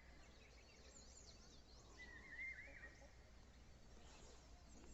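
Near silence outdoors, with faint distant bird chirps and a brief faint warbling call about two seconds in.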